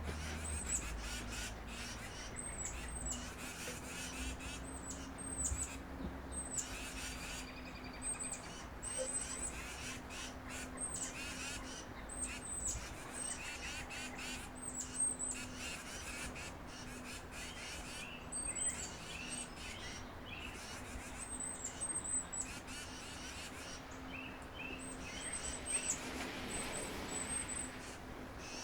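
Wild birds calling at a backyard feeder: very high, thin chirps that sweep downward, in quick groups of two to four and repeated every second or two. A faint steady low hum runs underneath.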